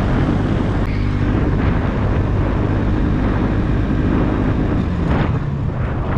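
Bajaj Pulsar NS200's single-cylinder engine running steadily under way, with wind rushing over the helmet-mounted microphone.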